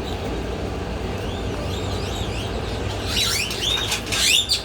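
Birds chirping: short rising-and-falling chirps that start faintly about a second and a half in and grow louder and denser in the last second and a half, over a steady low rumble.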